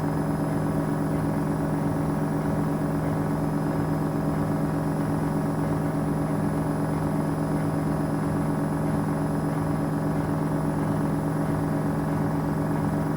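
Gorenje WA72147 washing machine running at a steady speed, its Selni motor, fitted with new carbon brushes, giving a steady low hum with a strong single pitch.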